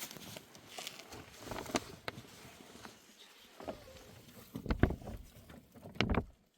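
Irregular knocks and rustling, with two louder thumps about five and six seconds in.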